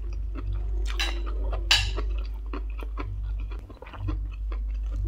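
Close-miked chewing with wet mouth smacks and small clicks, and a brief louder crackle about 1.7 s in, over a steady low hum.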